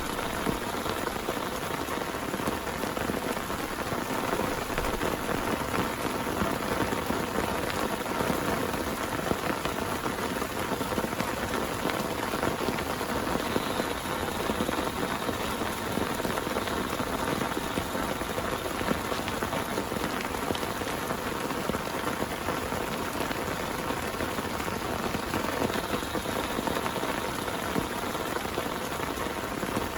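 Heavy rain falling steadily, a dense even patter of many close drop impacts.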